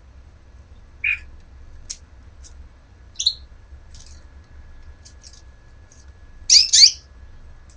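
A bird calling in short chirps and squawks: one about a second in, another just after three seconds, and a louder double squawk near the end, with faint high chirps in between.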